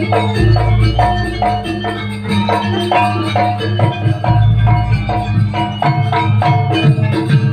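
Live East Javanese jaranan dance music: struck metal-keyed gamelan-style percussion playing a quick repeating pattern of notes, with rattles and drums over a steady low drone.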